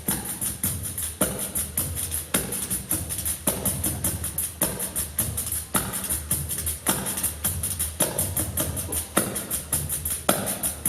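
Pandeiros, Brazilian frame drums with jingles, played together in a fast, dense rhythm, with a heavier accented stroke about once a second.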